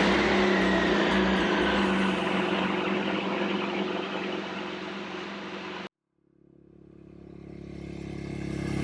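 2015 BMW R1200GS boxer-twin engine running just after being started on a freshly fitted lithium battery, slowly getting quieter. It cuts off abruptly about six seconds in, and music fades in.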